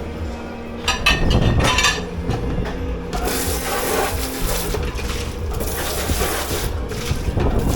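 Crockery and utensils clattering in a commercial dish pit, then two long hisses of water spraying, over a steady machine hum.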